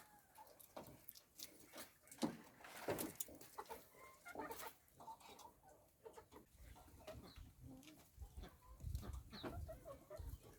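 Chickens clucking, with scattered knocks and rustling.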